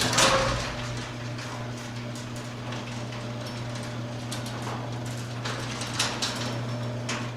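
Garage door opener running an overhead door: a steady motor hum with scattered clicks and rattles from the moving door. It is loudest at the start and stops just after the end.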